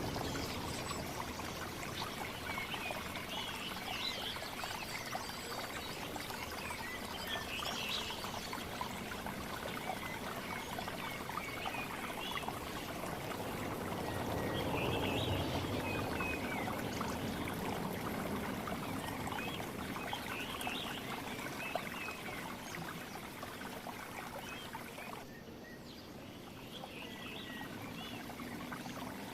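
Steady trickling of running water with many short bird chirps scattered over it. The sound drops and changes abruptly about 25 seconds in.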